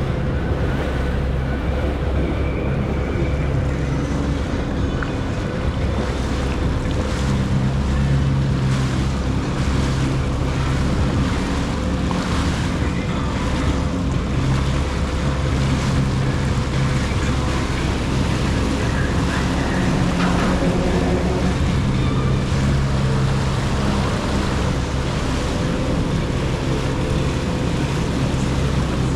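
Jet ski engine running steadily under way, with water rushing and wind on the microphone.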